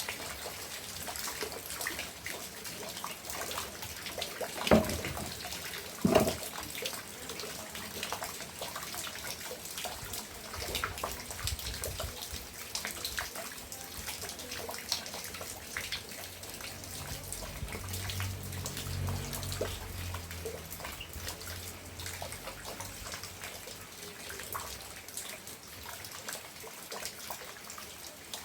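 Rain falling steadily, with running and dripping water and many small ticks of drops. Two louder knocks come about five and six seconds in, and a low rumble swells briefly past the middle.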